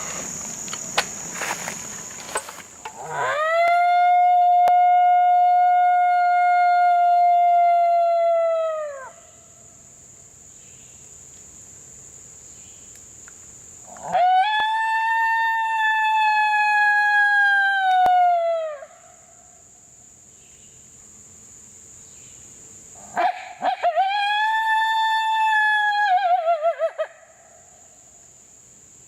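Three long coyote howls blown on a howler call, each held on a steady pitch and dropping away at the end, the last breaking into a wavering finish. Crickets trill steadily underneath, with some rustling and clicks before the first howl.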